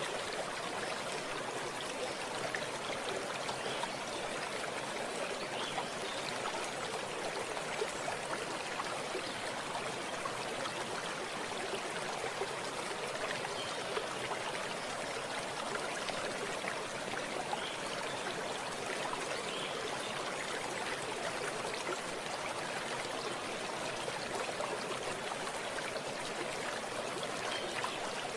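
Running stream water flowing steadily, an even rushing and trickling with no breaks.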